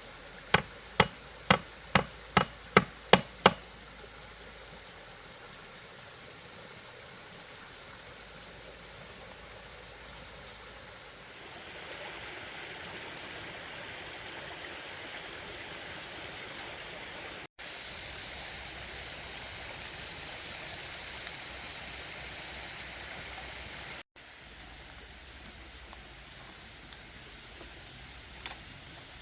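Hammer blows on wood, about two a second and quickening slightly, stopping about three and a half seconds in. Then a steady high-pitched drone of insects, which grows louder about halfway through.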